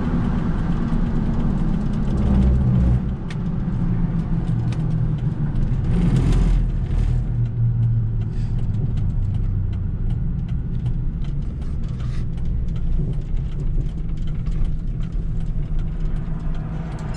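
Steady low road and engine rumble inside a moving vehicle's cabin while driving, with a brief rush of noise about six seconds in.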